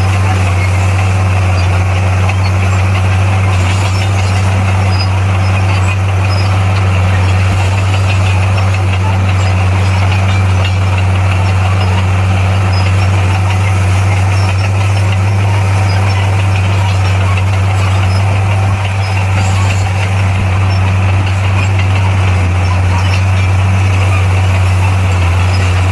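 Heavy construction machine's diesel engine running steadily at a constant speed, a loud low even hum with no change in pitch.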